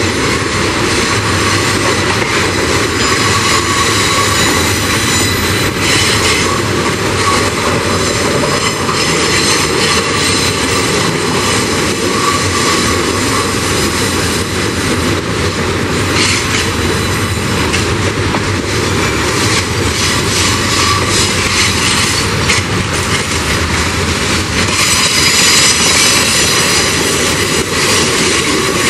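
Freight train of tank cars rolling steadily past, steel wheels running on rail, with high wheel squeal on the curve coming and going and strongest near the end.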